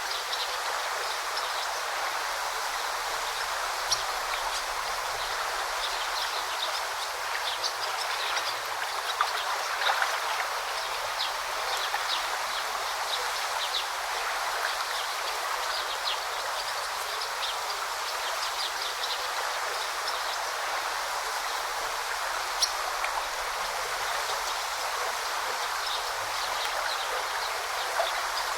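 Small river or brook flowing steadily in a constant watery rush, with many short high ticks and splashes scattered through it.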